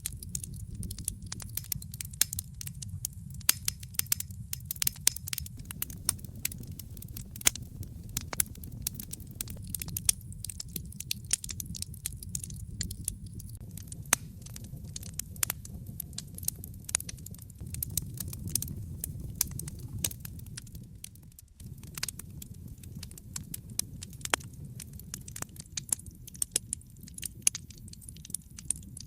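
Wood fire burning in a fireplace, crackling with frequent irregular sharp pops and snaps over a steady low rumble of flame. The rumble drops out for a moment about two-thirds of the way through.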